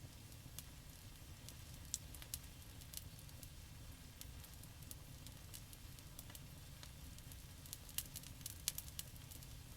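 Wood campfire burning, with scattered sharp crackles and pops over a low steady rumble; the pops come thicker near the end.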